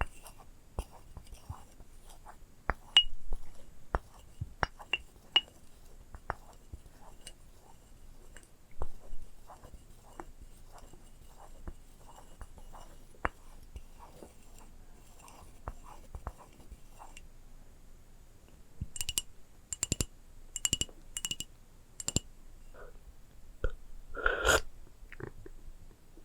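ASMR trigger sounds: fingernails tapping and clicking on small hard objects, some taps with a light glassy ring. About three-quarters of the way through comes a run of five louder ringing clicks, then a short scratchy rustle near the end.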